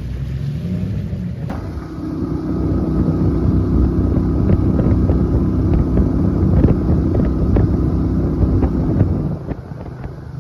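Boat motor running steadily underway, with wind buffeting the microphone. It eases off briefly near the end.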